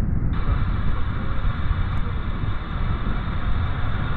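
Gusty wind rumbling on the microphone, with an airband radio's squelch opening about a third of a second in to a steady hiss with no voice on it.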